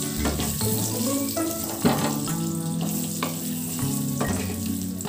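Potato chunks sizzling as they fry in hot oil in a wok, stirred and turned with a spatula that scrapes the pan now and then. Background music with held notes runs underneath.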